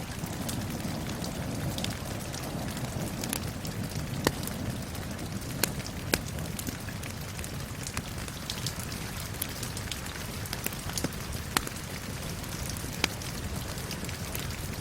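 Steady rain with a crackling wood fire: a continuous hiss and patter of rain, broken every second or so by sharp pops from the burning wood.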